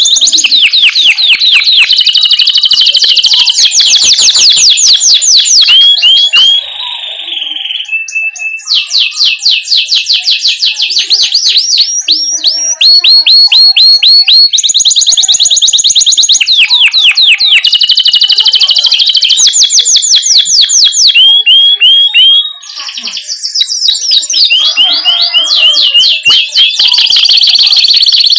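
Domestic canary singing a long, loud, continuous song of rapid high trills and rolls, one repeated-note phrase running into the next with hardly a pause.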